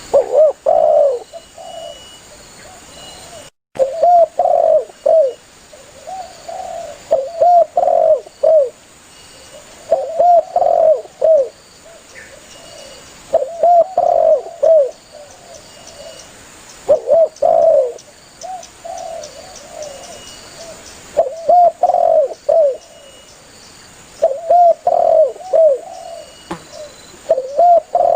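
Spotted dove (tekukur) cooing in repeated short phrases of several curved coo notes, one phrase every two to three seconds. The sound cuts out briefly about three and a half seconds in.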